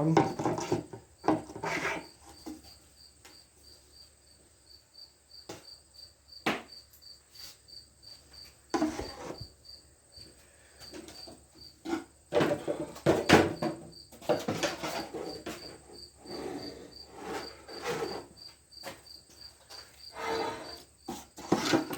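Knocks, clunks and scraping of a machinist's level being lifted, turned over and set back down on a cast-iron lathe bed, with one sharp knock about 13 seconds in. A cricket chirps steadily in the background.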